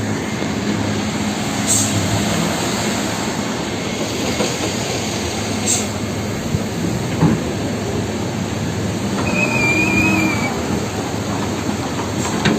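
Heavy truck running along the road: a steady rumble and rattle of the vehicle. About ten seconds in there is a brief, wavering high squeal.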